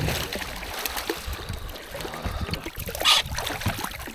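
Water splashing and trickling at the side of a boat while a fish is brought up, with scattered small knocks and a sharper splash about three seconds in.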